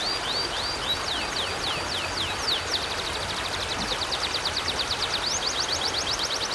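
River water flowing steadily, with a songbird singing fast series of high slurred notes over it: rising notes at first, then falling ones, then a rapid trill of many notes a second from about the middle.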